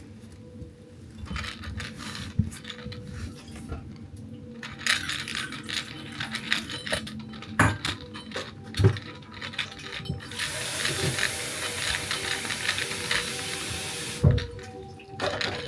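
A cat with no teeth eating from a food bowl: scattered small clicks and knocks of the dish. A steady hiss runs for about four seconds in the second half.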